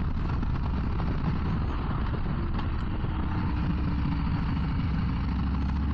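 Harley-Davidson Low Rider ST's Milwaukee-Eight V-twin running steadily at road speed, with wind rush over it.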